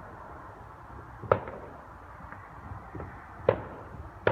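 Fireworks going off unseen behind trees: two sharp bangs about two seconds apart, with a third right at the end, over a steady hiss.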